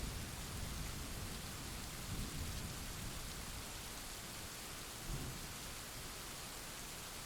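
Steady heavy rain hissing, with low thunder rumbling through the first half and fading away, and a brief low rumble about five seconds in.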